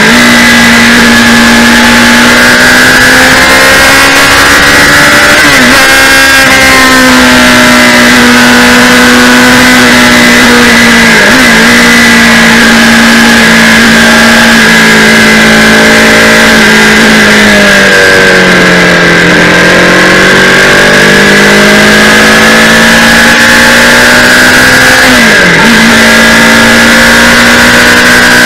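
Kawasaki Z800's inline-four engine running steadily at speed, heard from a camera mounted on the bike, over loud wind noise. Its pitch dips briefly a few times and sags for a couple of seconds past the middle before climbing back.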